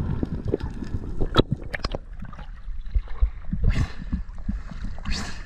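Water gurgling around a spearfishing diver, with scattered clicks and crackles and two short rushes of water or bubbles, about three and a half and five seconds in.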